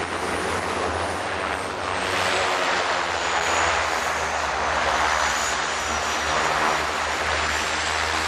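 Turboprop engines of a de Havilland Twin Otter running steadily, with a thin high turbine whine over the propeller drone.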